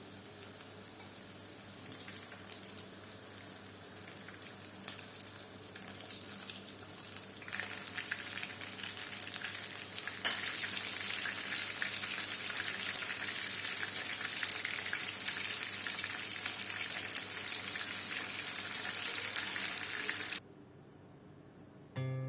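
Chicken tenders frying in hot oil: a dense crackling sizzle that grows louder and then cuts off sharply near the end.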